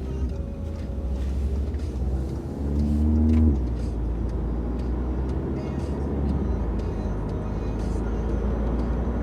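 Audi A3 fitted with a Milltek resonated turboback exhaust, running with a steady low drone. About three seconds in the revs rise briefly and louder, then cut off sharply, and the engine settles back to steady low running.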